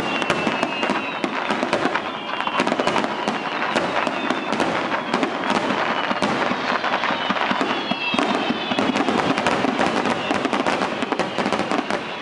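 Fireworks display: a continuous dense crackle of rapid pops and bangs with no pause. Thin high falling tones come in briefly near the start and again about eight seconds in.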